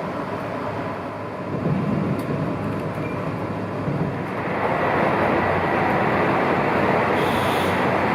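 Train running noise, a continuous rumble that grows louder about a second and a half in and again from about four and a half seconds.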